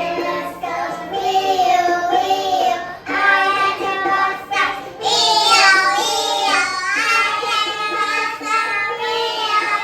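Young children singing a song together, with music.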